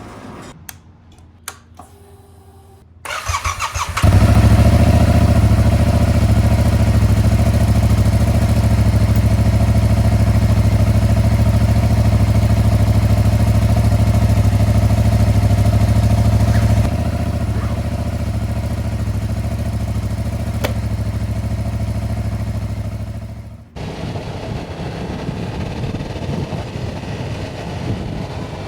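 Yamaha R7's 689 cc parallel-twin engine being started: a few light clicks, then the starter cranks briefly about three seconds in. The engine catches and idles steadily and loudly, easing slightly about two-thirds of the way through. Near the end the sound cuts abruptly to a quieter, rougher engine sound.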